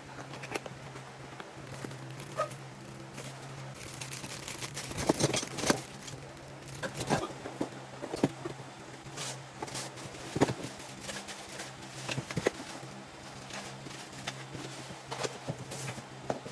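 Drum-kit parts and their plastic and cardboard packaging being handled: irregular clicks, knocks and crinkling, with a few louder knocks, over a steady low hum.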